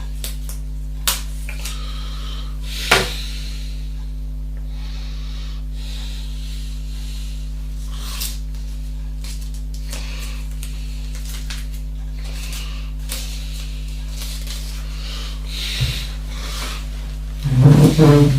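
Steady low electrical hum, with a few scattered small clicks and knocks and a louder brief low sound near the end.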